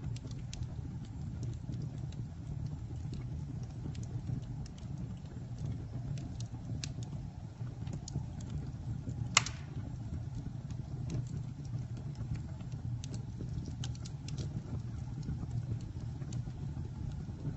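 Campfire burning: a steady low rumble of flames with scattered crackles and pops, and one sharp, louder pop about nine seconds in.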